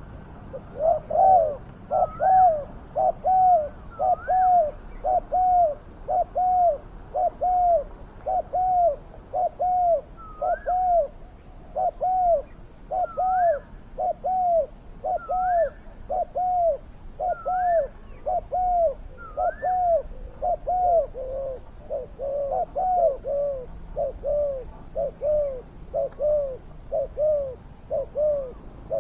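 Spotted doves cooing: a steady, unbroken run of low arched coos, a little more than one a second, with higher rising notes mixed in every second or two.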